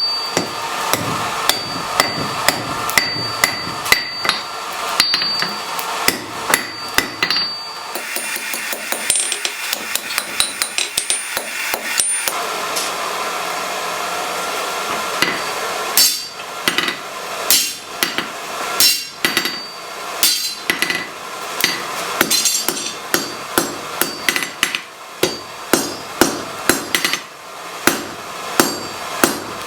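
Blacksmith's hand hammer forging hot metal: runs of quick, sharp blows, about two or three a second, with a lull of few blows in the middle, over a steady background noise.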